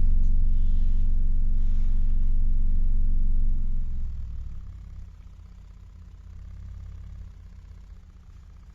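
Cerwin Vega Stroker 18D4 18-inch subwoofer playing a 23 Hz test tone: a loud, deep, steady hum. About four seconds in it falls away sharply to a much quieter low rumble.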